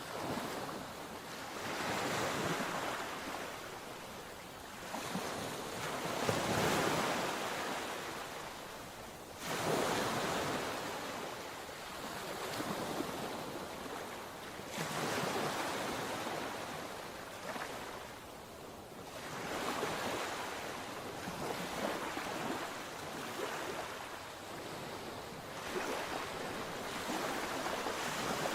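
Sea waves breaking and washing on the shore, one surge after another every few seconds, with some wind noise on the microphone.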